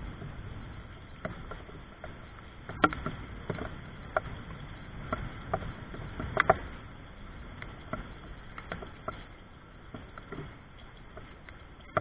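Rain dripping: irregular drops tapping on surfaces, a few louder ones among many small ticks, over a soft low wash.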